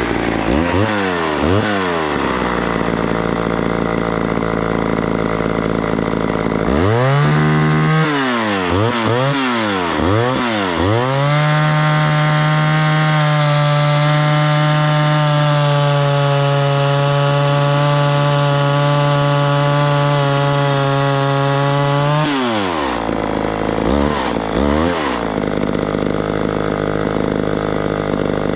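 Homelite Super XL two-stroke chainsaw revving up and down, then held at a steady high speed for about ten seconds while cutting wood, with quick throttle blips near the end. The owner puts its bogging in the cut down to having forgotten to put oil in it.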